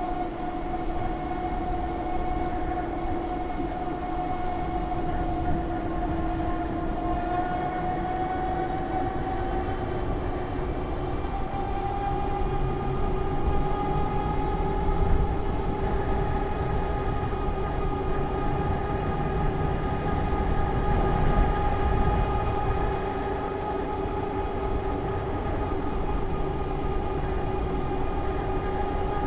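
Electric drive motor whining steadily while riding under throttle, its pitch climbing slightly about ten seconds in as the speed picks up. Wind rumbles on the microphone underneath.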